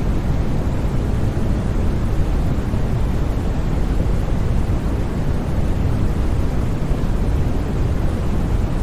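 Steady sleep-aid white noise: an even, unbroken hiss, strongest in the low end and fading toward the highs, with no changes or sudden sounds.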